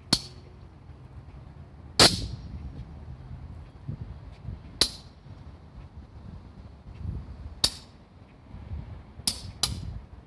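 Six sharp cracks at uneven intervals, the second the loudest and the last two close together, over a low steady rumble.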